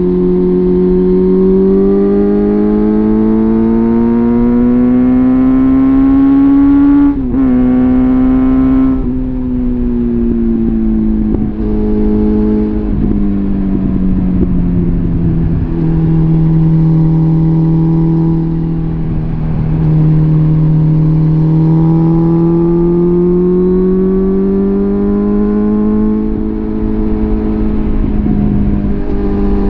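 Suzuki GSF650 Bandit's inline-four engine through a full Arrow exhaust system, under way: it pulls up through the revs, drops sharply at a gear change about seven seconds in, then eases off and slows for several seconds. It holds steady for a while, then pulls up again.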